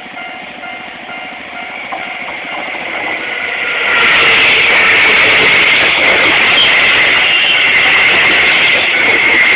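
Japanese railroad crossing bell ringing in a repeating ding, then a Keisei train passing over the crossing from about four seconds in, its loud, steady running and rail noise drowning out the bell.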